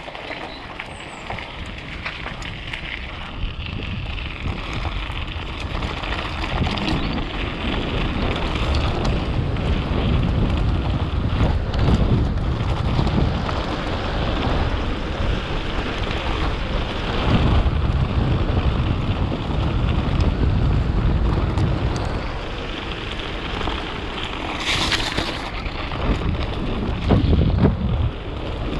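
Wind rushing over the microphone on a fast downhill mountain bike descent, with the tyres rumbling over dirt and the bike knocking and rattling over bumps. A short hiss comes near the end.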